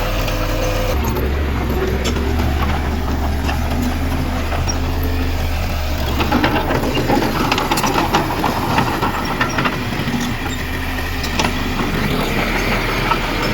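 Heavy diesel earthmoving machinery running under a steady low engine drone, with scattered metallic clanks and knocks, most frequent in the middle of the stretch.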